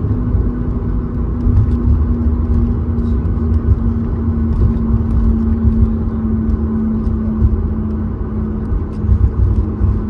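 Cabin noise of a Boeing 737 MAX 8 rolling on the ground: an uneven low rumble with a steady hum over it.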